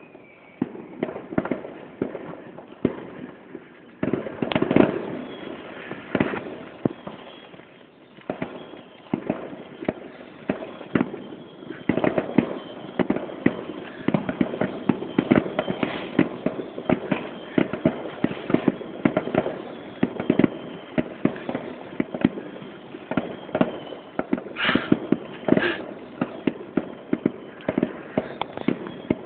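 Fireworks display: a rapid, irregular run of bangs and crackles that grows denser and more continuous about twelve seconds in.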